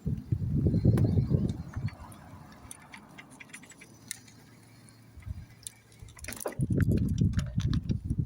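Low rumbling buffeting on the microphone in two bursts, one in the first two seconds and one from about six and a half seconds in, with scattered small clicks and rattles throughout.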